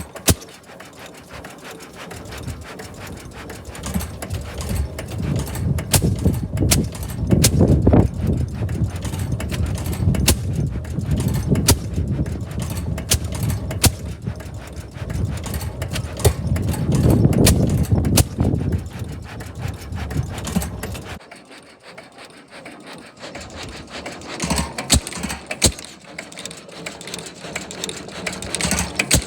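6-horsepower White gasoline engine running, firing in sharp, irregular bangs. A low rumble rises and falls under the firing and cuts off abruptly about two-thirds of the way through, while the bangs carry on.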